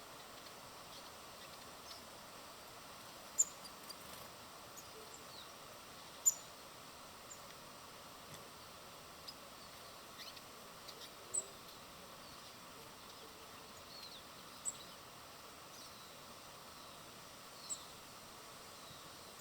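Small birds at a feeder giving short, high chirps every few seconds over a steady background hiss.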